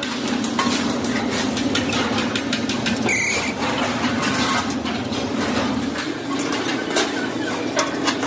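Workshop machinery running with a steady low hum, over frequent sharp clicks and knocks of metalwork.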